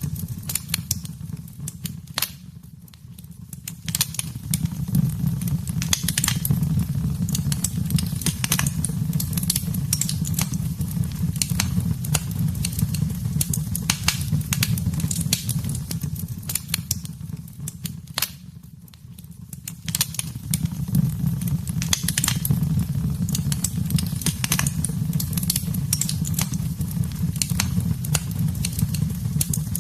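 Wood fire burning in a fireplace: a steady low rumble with frequent sharp crackles and pops. The sound fades down briefly twice, about three seconds in and again around nineteen seconds, then comes back.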